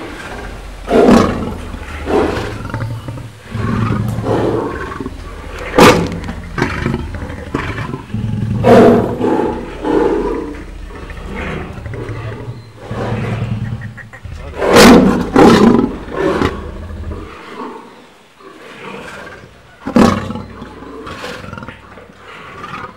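Lion growling and roaring over its food in about ten short, loud bouts at irregular intervals.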